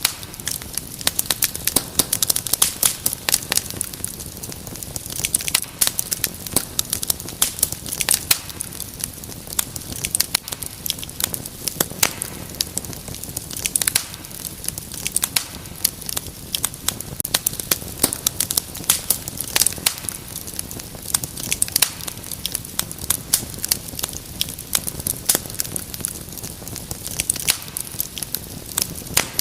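Wood fire crackling steadily: many irregular sharp pops and snaps over a soft hiss.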